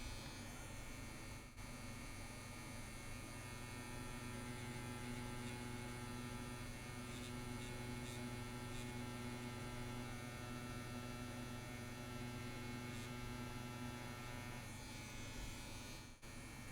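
CNC WE tattoo machine buzzing steadily as it runs a line into practice skin, with a steady pitch throughout and two brief dips near the end.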